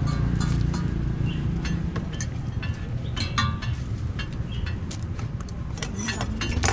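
Irregular sharp metal clinks and taps, typical of utensils on a hot griddle, over a steady low rumble of an engine or passing traffic that eases after about two seconds.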